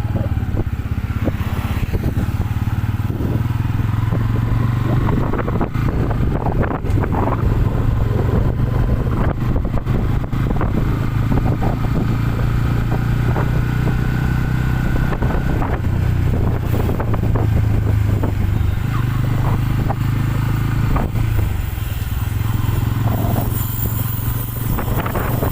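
Motorcycle engine running at a steady pitch, with scattered light knocks and rattles.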